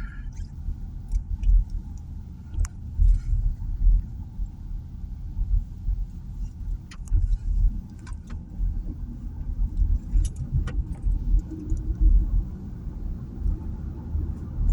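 Car on the move: a low, uneven rumble of road and engine noise with scattered light clicks and rattles.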